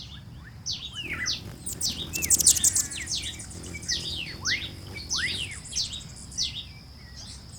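Several birds calling: a run of quick, sharply descending whistled chirps repeating throughout, with a fast buzzy trill about two seconds in.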